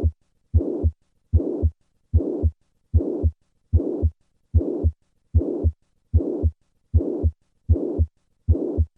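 Heart sounds of mitral regurgitation heard through a stethoscope: a regular heartbeat at about 75 a minute. In each beat a pansystolic murmur fills the gap from the first heart sound all the way to the second.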